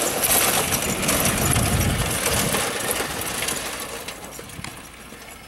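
Garden tractor rolling down a hill: a loud rumbling, rattling noise that fades away over the last two seconds or so.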